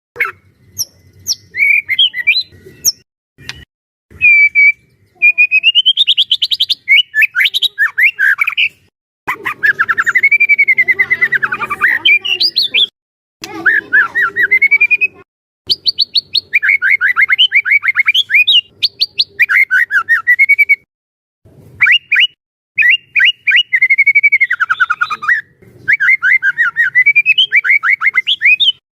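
White-rumped shama (murai batu) in full song: loud, varied phrases of rapid repeated notes and sweeping whistles, each lasting one to three seconds, broken by short pauses.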